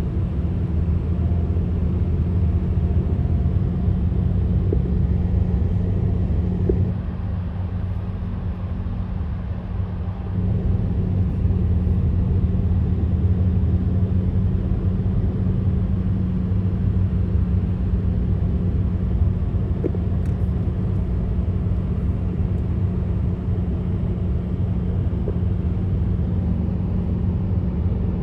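Steady low rumble of vehicle engines and road noise, with a constant hum. It drops a little about seven seconds in and comes back about three seconds later.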